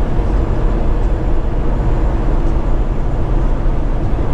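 Peterbilt 389 semi truck driving at road speed, a steady low rumble of engine and road noise heard inside the cab.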